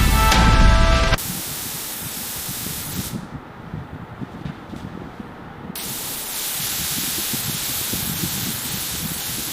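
Music for about the first second, then a steady spraying hiss. In the middle the hiss turns duller for a couple of seconds, losing its highs, then comes back full.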